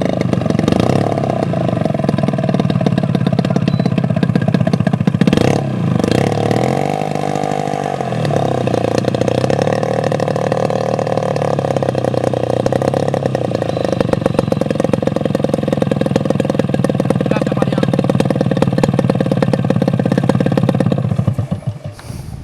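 Engine of a 1/3-scale radio-controlled Cessna 182 model airplane running loud and steady. Its pitch sweeps down and back up in the middle. The sound falls away near the end.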